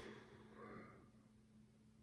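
Near silence: room tone with a low steady hum and a faint, soft rustle in the first second.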